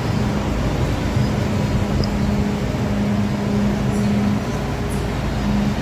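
MTR M-Train electric train, a steady hum with a constant rumble and no break or change.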